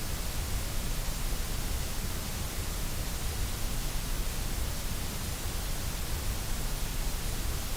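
Steady white noise: an even, unchanging hiss spread across the whole range, with no changes or events.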